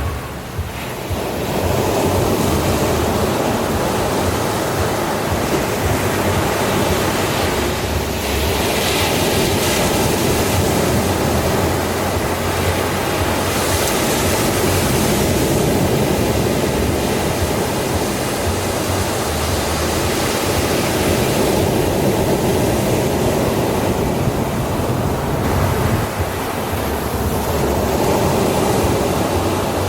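Ocean waves breaking on a sandy shore: a continuous wash of surf that swells and eases, with several breakers growing louder and hissier about a third of the way in, in the middle and near the end.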